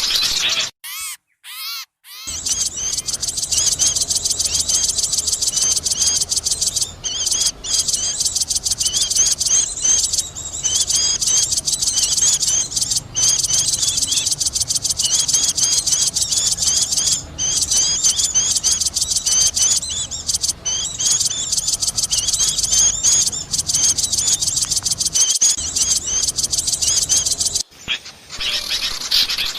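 Dense, noisy chorus of many small songbirds chattering and chirping at once, a bird-lure recording made to call in small birds. Short high chirps pile on each other without pause, apart from a brief drop-out about a second in and a short dip near the end.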